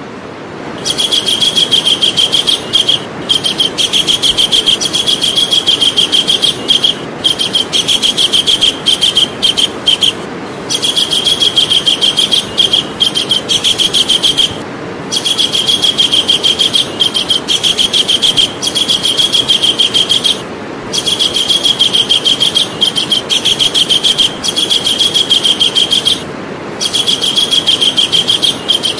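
Javan kingfisher (cekakak jawa) calling: long, fast rattling trills of high notes, each lasting several seconds, broken by short pauses, over a steady background hiss.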